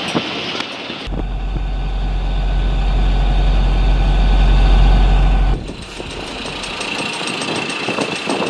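A sailboat's inboard engine running steadily as the boat motors out of harbour, heard across several edited shots. A deep hum swells louder through the middle and cuts off abruptly.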